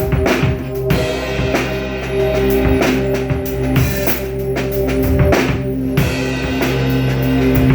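A drum kit played in a busy, fill-heavy groove, with frequent kick, snare and rimshot strikes. Steady held pitched notes from accompanying music sound underneath.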